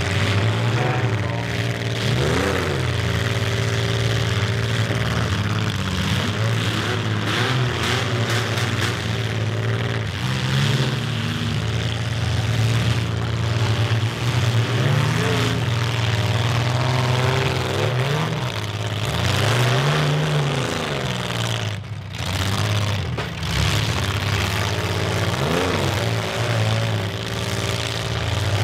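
Engines of several compact demolition derby cars running and revving, their pitch rising and falling again and again as the cars accelerate and back off on the dirt track.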